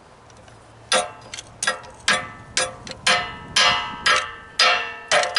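Hammer blows on the metal parts of a torn-down Dewalt air compressor, about two a second from about a second in, each strike ringing briefly, as a stubborn plastic piece is beaten off for scrap.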